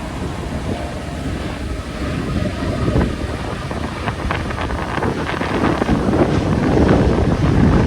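Strong crosswind buffeting the microphone in a heavy, uneven rumble that grows louder over the last few seconds.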